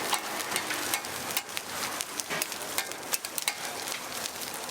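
Sorghum bukkumi frying in oil on a griddle: a steady sizzle with scattered sharp clicks.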